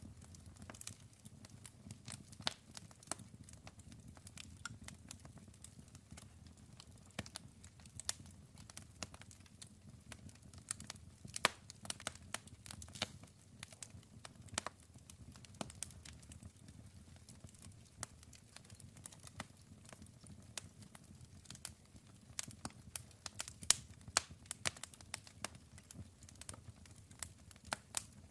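Wood fire burning, with irregular sharp crackles and pops of burning wood over a low, steady rumble of the flames.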